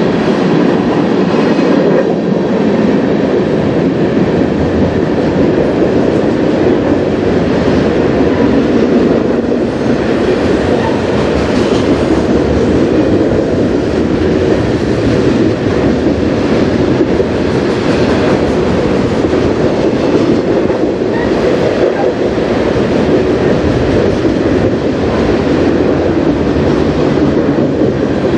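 Freight cars of a mixed freight train (tank cars, covered hoppers, flatcars and autoracks) rolling steadily past: a loud, continuous rumble with rattling and wheel clatter.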